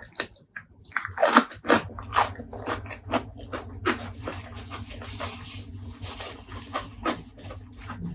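Close-miked eating of pork leg curry and rice: wet chewing and lip smacking in quick irregular clicks. A steady low hum runs under it from about a second in.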